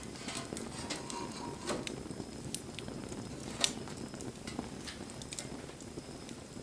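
Wood fire crackling, with scattered irregular pops over a steady low rustle of burning; one sharp pop stands out about three and a half seconds in.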